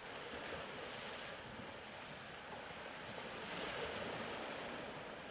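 Faint ocean surf: soft waves washing in and ebbing, swelling slowly twice.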